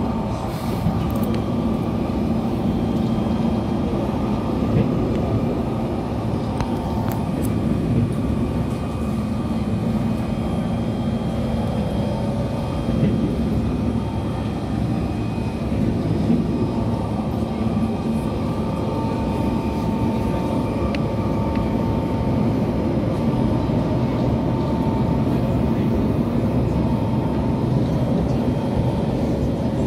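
Cabin noise of an SMRT C151 metro train running along the line: a steady rumble of wheels on rail with motor hum. A faint thin whine comes in for a few seconds around the middle.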